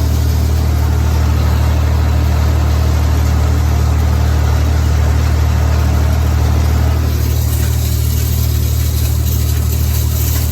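Tractor engine running steadily under load during hay raking: an even low drone, with a rise in high hiss about seven seconds in.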